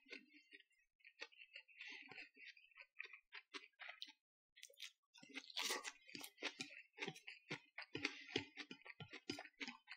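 Close eating sounds: a man chewing a mouthful of fried noodles, with many small, irregular wet clicks and ticks from the mouth and chopsticks. A short pause a little after four seconds, then the clicking grows busier and a bit louder.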